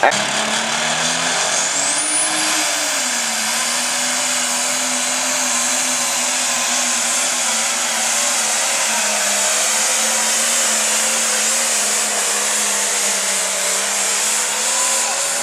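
Light pro stock pulling tractor's diesel engine running hard on the track, a loud steady drone whose pitch wavers and rises briefly about two seconds in, then holds. The announcer says it doesn't sound good.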